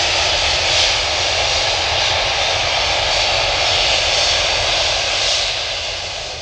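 Airliner's jet engines roaring at high power as the aircraft passes close by, steady and loud, then starting to fade near the end.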